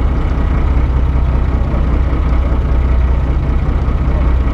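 Steady low engine rumble, like a motor idling.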